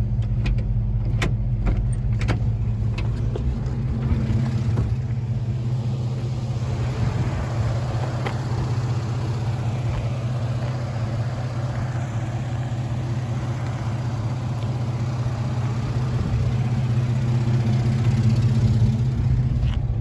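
A 4.3-litre V6 in a 1947 Ford F1 pickup running steadily with a low, even hum. A few sharp clicks sound in the first seconds, and a rushing noise joins the engine from about six seconds in.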